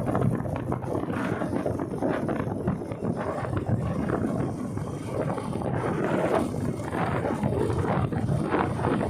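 Wind rushing over the microphone of a motorcycle on the move: a steady low rumble with irregular gusts.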